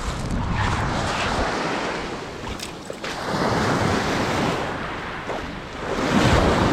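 Ocean surf breaking and washing up the beach, rising and falling in surges about three times, loudest near the end, with wind buffeting the microphone.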